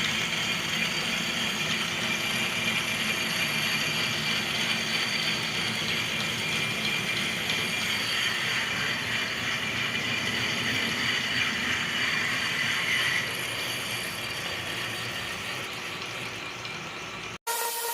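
Lathe running steadily, a continuous mechanical whirr with a thin steady whine, which cuts off abruptly near the end.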